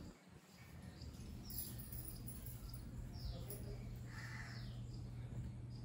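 Faint bird chirps: a few short, quick notes that fall in pitch, over a steady low hum.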